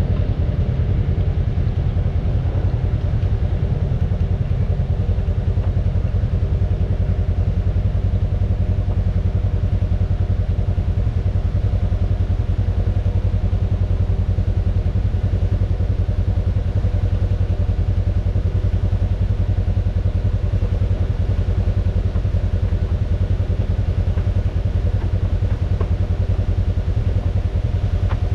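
Off-road vehicle engine running steadily at an even pitch, with a heavy low rumble and no revving.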